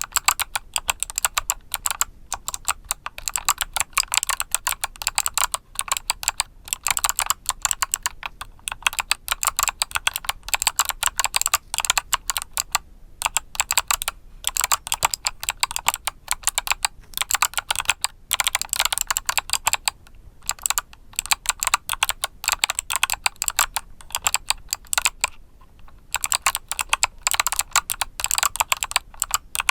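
Continuous fast typing on a mechanical keyboard with Kailh Box switches, a dense run of crisp keystroke clicks broken by a few brief pauses.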